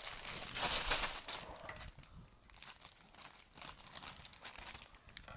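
Plastic bags of building bricks being picked up and handled, crinkling loudly for the first second and a half, then with fainter scattered rustles.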